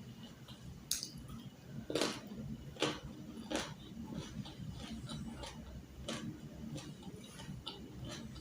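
A person chewing crisp food close to the microphone, with irregular sharp crunches roughly once a second.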